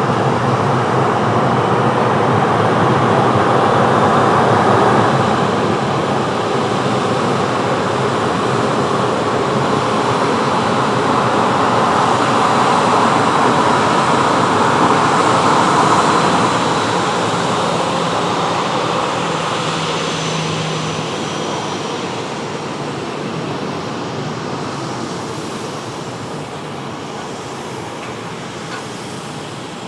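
Jet engines of a passing Boeing 737-800 airliner: a loud roar with a faint high whine, strongest through the first half and then fading away steadily.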